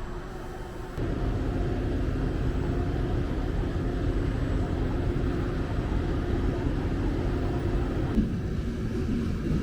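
Steady rumble of a moving vehicle with a faint low hum, stepping up in level about a second in.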